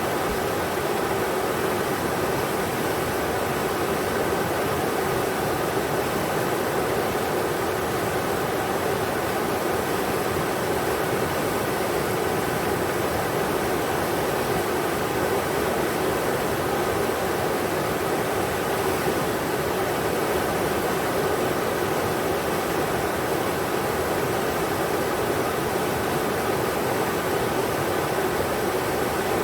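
Englishman River's rushing water: a steady, even rush with no breaks or changes.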